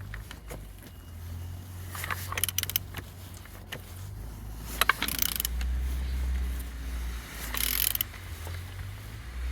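A Renault K9K 764 1.5 dCi diesel engine being turned over by hand, with scattered metallic clicks and short rattling bursts from the tool and the rotating parts over a steady low hum. The turning shows the engine rotating freely with compression on all cylinders.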